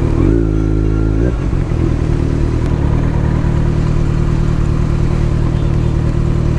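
Kawasaki Z900's inline-four engine running while riding, picked up by a helmet microphone, with a brief change in engine note about a second in.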